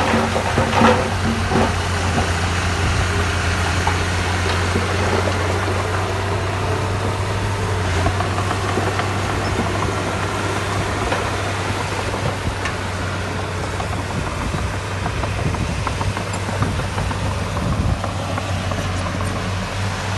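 Diesel engine of heavy construction equipment running steadily at an even pitch, with a few knocks in the first couple of seconds.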